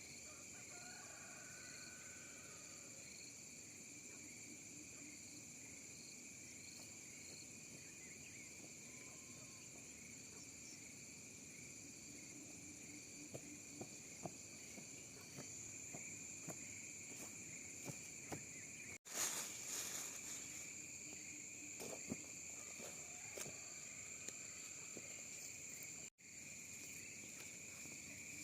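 Faint, steady high-pitched chorus of insects chirping, with scattered small clicks. The sound drops out for an instant twice, near the middle and again a few seconds later.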